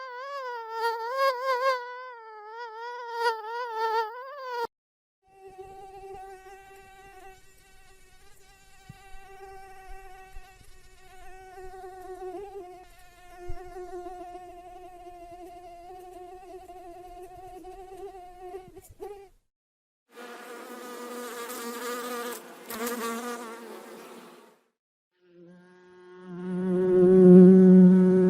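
Mosquito wing whines from several recordings in a row. First a high whine that wavers up and down in pitch, then a steadier, lower whine for about fourteen seconds. After a brief gap comes a rougher, noisier buzz, and near the end a deeper, loud buzz.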